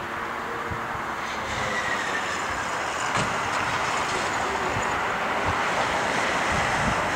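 Jet airliner engines running with a steady rush that grows slightly louder, a faint falling whine just after the start.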